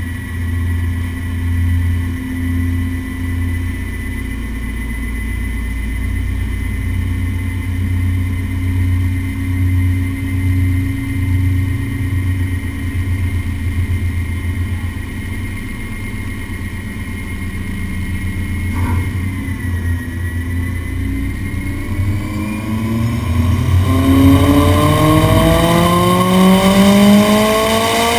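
Honda S2000 inline-four with an ASM exhaust running at a steady low speed on a chassis dyno, with a low exhaust rumble and a thin steady high tone. After a brief click about two-thirds of the way in, the revs begin climbing in a long pull under load, the exhaust note rising in pitch and getting louder.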